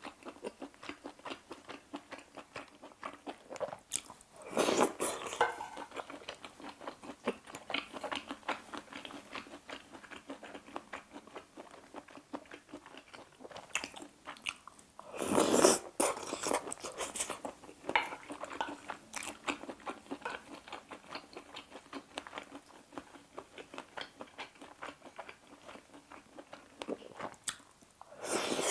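Close-up eating sounds of a mouthful of seafood aglio e olio spaghetti being chewed: a continuous run of small wet mouth clicks and smacks. There are louder bursts about five seconds in and near the middle, and a slurp of noodles at the very end.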